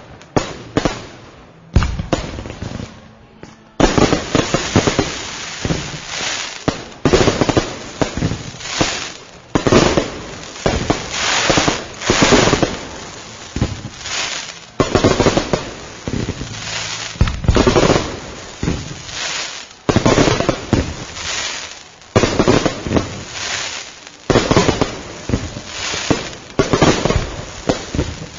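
Fireworks going off in a long, near-continuous barrage of bangs, each trailing off before the next. Sparser for the first few seconds, then dense and louder from about four seconds in.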